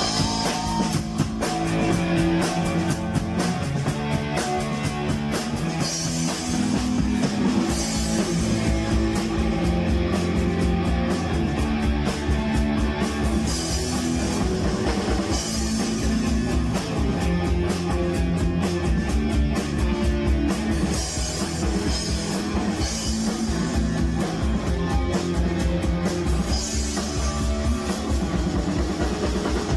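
A live rock band playing a song on drum kit and guitars, steady and loud throughout.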